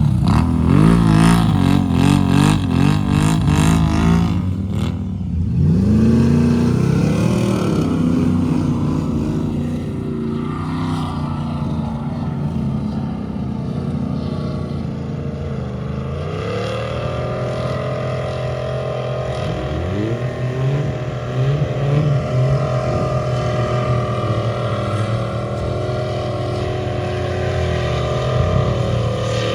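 Off-road 4x4 engine running under load, revving up and down repeatedly. It is loudest and busiest in the first four seconds, and the engine pitch climbs again about six seconds in and again around sixteen and twenty seconds.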